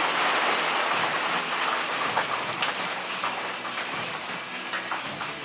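A steady, rain-like hiss that slowly fades, with faint tones underneath.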